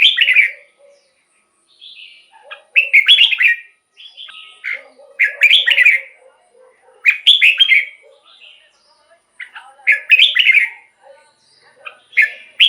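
Red-whiskered bulbul singing short, bright warbled phrases, one every couple of seconds, about six in all.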